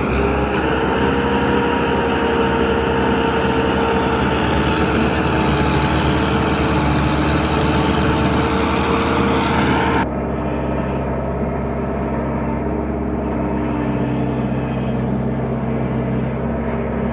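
Tractor engine running hard under load with a steady pitched drone. About ten seconds in, the sound cuts abruptly to a different, somewhat quieter engine running steadily.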